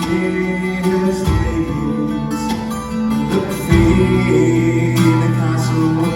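A Scottish folk band playing an instrumental passage of a ballad live: plucked guitar under held melody notes, with the bass chord changing about a second and a half in and again near four seconds.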